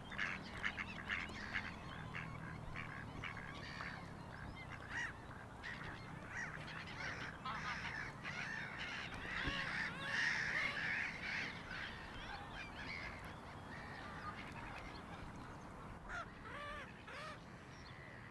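Geese honking repeatedly, several birds calling over one another, busiest about halfway through.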